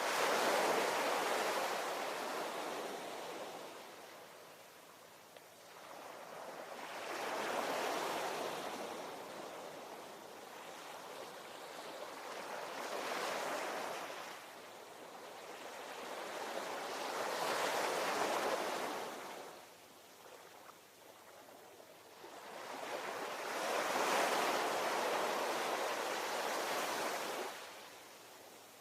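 Ocean waves breaking and washing in, five slow surges that each build and fade over several seconds.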